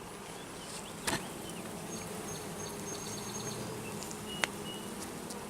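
Honey bees buzzing steadily around an opened hive during an inspection, with two sharp clicks, one about a second in and one near the end.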